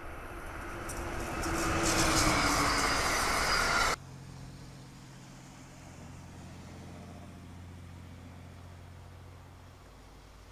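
Amtrak electric passenger train coming on fast, a loud rush of wheels with a whine that grows louder and sags slightly in pitch, cut off abruptly about four seconds in. After the cut comes a much quieter steady low hum of a diesel engine, from an excavator digging in snow.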